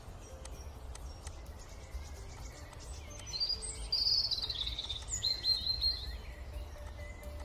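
Birds chirping: a run of short high chirps and falling whistled notes in the middle of the clip, over a steady low hum of background noise.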